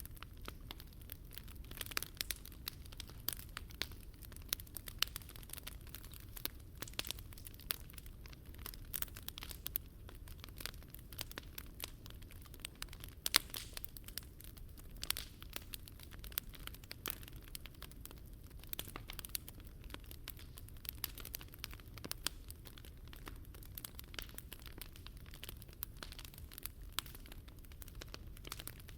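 Wood fire burning in a Picogrill 398 fire pit, crackling with many irregular pops and snaps over a low steady rumble, one pop louder about 13 seconds in.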